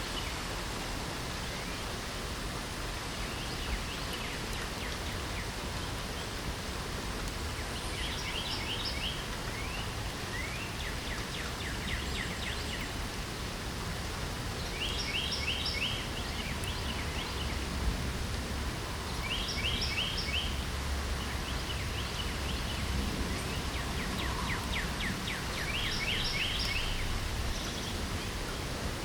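Steady hiss of light rain, with a songbird singing over it: about five short phrases of rapid repeated high notes, a few seconds apart.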